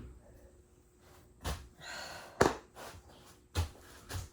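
A few sharp knocks and thuds of things being handled, four in all spread over a few seconds, with a soft breathy sigh between the first two.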